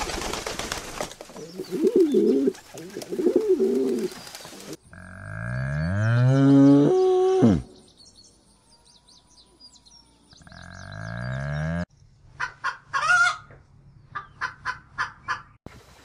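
A flock of pigeons flapping their wings and cooing. Then one long, loud cow moo that rises in pitch and falls off at the end. Near the end comes a run of about eight short, high calls from another animal.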